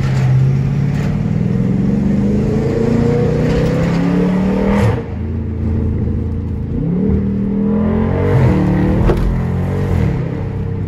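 Chrysler SRT8 392's 6.4-litre HEMI V8 accelerating hard, its pitch climbing, then dropping at an upshift about five seconds in, climbing again and dropping at a second shift a couple of seconds before the end.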